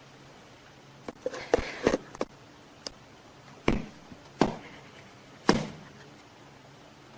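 A run of sharp knocks and bumps: a quick cluster of clicks and thumps about a second in, then three single louder thumps roughly a second apart.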